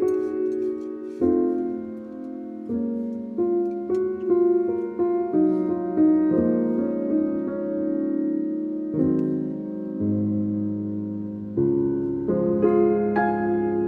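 Background music: solo piano playing slow, gently struck chords and notes, each ringing and fading.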